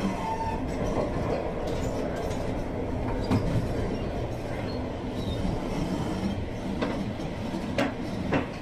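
Passenger train running on the line: a steady rumble of wheels on rail, with a few sharp clicks over its second half.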